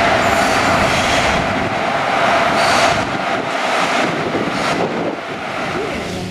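A railway locomotive running with a steady loud drone and a held whine; the whine fades about halfway through.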